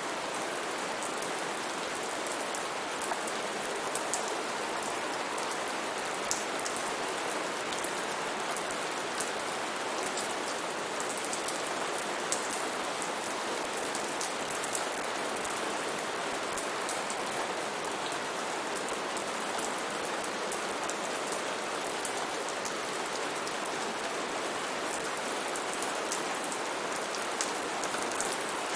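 Steady heavy rain falling on foliage and ground, an even hiss with many small sharp drop ticks throughout.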